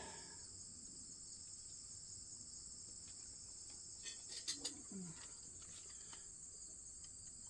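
Steady, high-pitched insect chorus, faint throughout. A few faint clicks and a brief low mutter come about halfway through.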